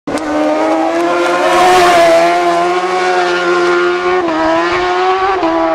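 Racing superbike engine running at high revs, its pitch held nearly steady, with two brief dips near the end.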